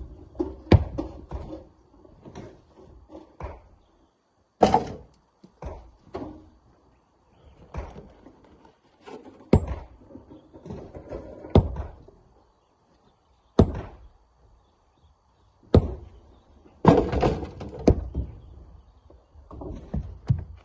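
Heavy knocks and thuds of rocks striking, one every one to two seconds at uneven intervals, some followed by a short rattle, as rocks are broken and loaded by hand into a dump truck.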